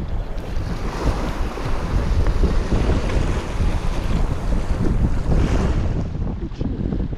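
Wind buffeting the microphone in uneven gusts, over the wash of sea waves on a rocky shore.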